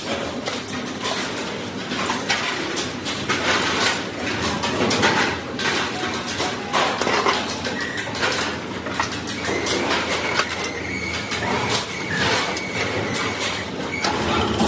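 Factory workshop noise: a steady mechanical din with frequent irregular metallic knocks and clanks, and a faint steady whine for a few seconds past the middle.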